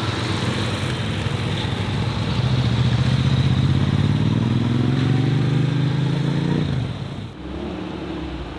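A modified car's engine accelerating hard away, rising steadily in pitch and loudness for about four seconds, then cutting off sharply as the driver lifts off near the end.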